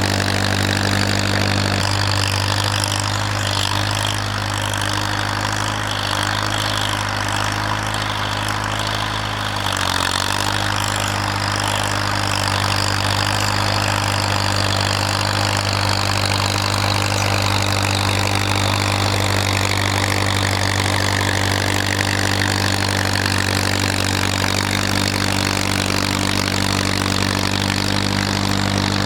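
Farmall tractor engine running steadily, its pitch dipping briefly about ten seconds in as it takes load, then recovering.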